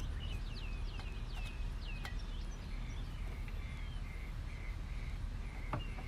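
Songbird chirping: a run of quick falling chirps in the first two seconds, then a short note repeated several times. Steady low outdoor rumble runs underneath, with a faint click or two.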